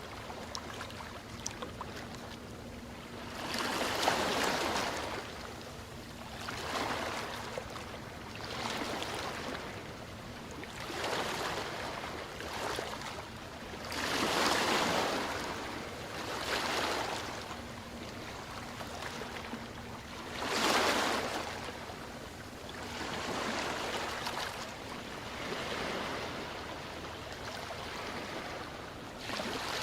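Ocean waves washing in, a rising and falling hiss of surf that swells every two to three seconds, the biggest surges about four, fourteen and twenty-one seconds in.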